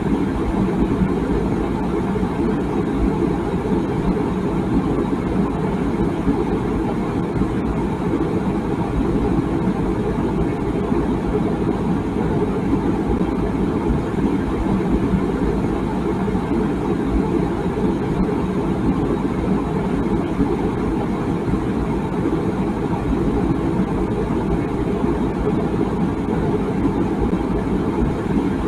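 Water boiling in a tea kettle: a steady low rumble with no whistle.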